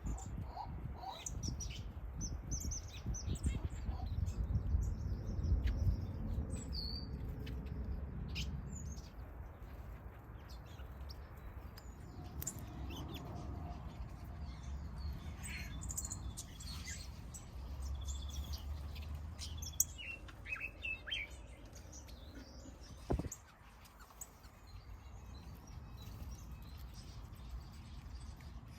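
Small aviary birds, mostly finches, chirping and calling in many short, separate notes. A low rumble sits underneath for the first several seconds, and there is a single sharp knock about 23 seconds in.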